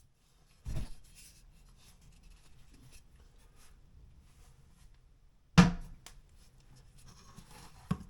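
Faint scratching of a paintbrush working latex primer onto a drywall patch, broken by sharp knocks about a second in, about five and a half seconds in (the loudest), and again near the end.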